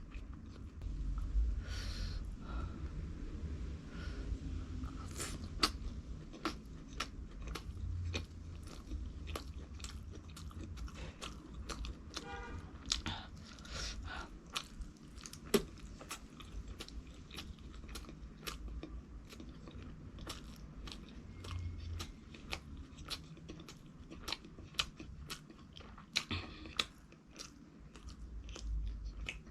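Close-up chewing and crunching of fried food: a steady stream of small crisp crackles, with a few louder bites standing out.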